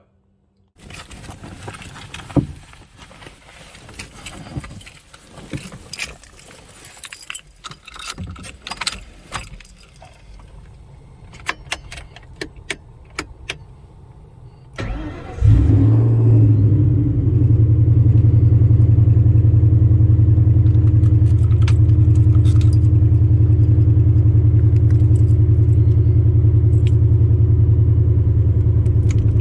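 Keys jangling and clicking for about fifteen seconds. Then a Ford Mustang engine cranks, fires, flares briefly and settles into a loud, steady idle.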